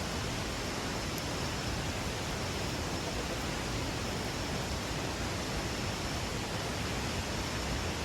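Heavy rain falling, a steady, even hiss with no separate drops or other sounds standing out.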